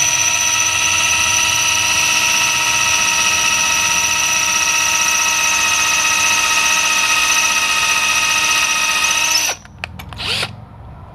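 Electric drill running at a steady, constant-pitch whine while boring a 15/64-inch bit gently through a motorcycle shift lever. It stops near the end, then gives one short burst.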